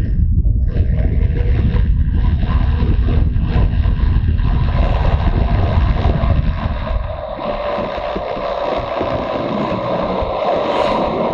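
Motorcycle engine running under way, with heavy wind buffeting on the microphone. About seven seconds in the buffeting eases and the engine's steady note comes through more clearly.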